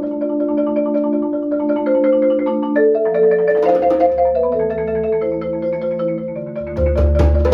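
Marimba playing held chords that shift every second or so. Near the end a deep low sound and sharp percussion strikes join in.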